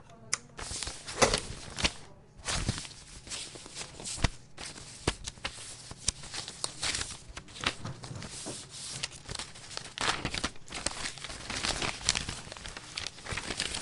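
Office activity: a dense, irregular run of small clicks and knocks with some rustling, like footsteps and objects or paper being handled around desks.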